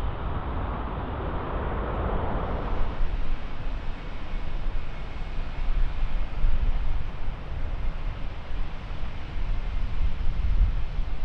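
Jet airliner engine noise fading over the first few seconds, leaving a low rumble. Wind buffets the microphone throughout, making the level rise and fall in gusts.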